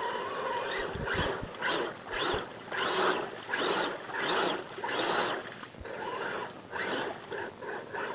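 Mud truck revved in a rapid series of bursts, about one every 0.7 seconds, each swelling and fading, as it works at getting through the mud.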